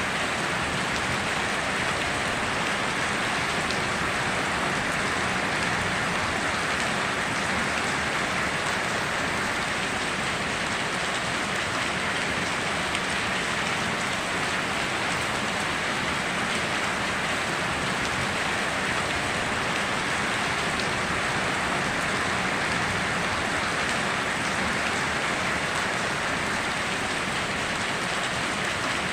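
Steady heavy rain falling on surfaces, an even unbroken hiss with no thunder or changes.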